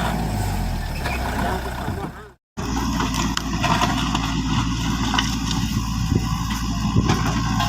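A truck engine running steadily at idle, with a low hum. It cuts out for a moment about two and a half seconds in, then runs on with scattered light clicks and knocks.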